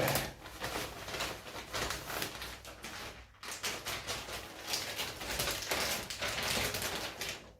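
Large plastic bag of perlite rustling and crackling as it is handled, in two stretches with a short break about three seconds in.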